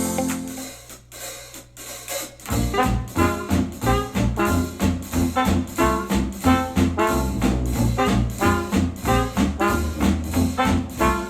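Music played through a Sony SRS-XB43 Bluetooth speaker. An electronic pop track fades out over the first second or so, then about two and a half seconds in an upbeat retro jazz tune with brass and drum kit starts, with a steady beat.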